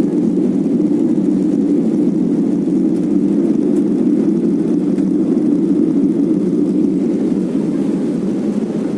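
Steady cabin noise inside a passenger airplane: the engines and airflow make a constant, deep rushing drone that does not change.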